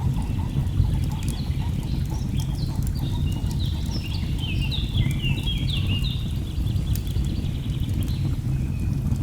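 Steady low rush of falling water with a log fire crackling, and a songbird singing a run of quick falling notes through the middle.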